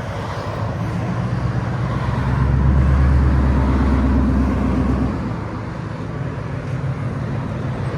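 2024 Ford Mustang GT 5.0L Coyote V8 running through a Roush H-pipe and a muffler delete with quad tips, with a deep exhaust rumble. The rumble swells louder about two seconds in, holds for a few seconds, then eases back.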